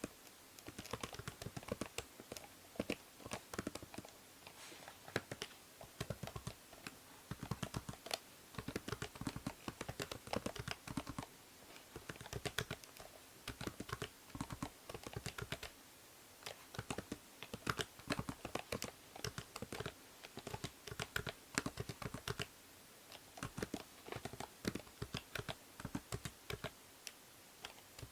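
Typing on a computer keyboard: quick, irregular runs of key clicks with short pauses between bursts, over a steady low hiss from the binaural microphone.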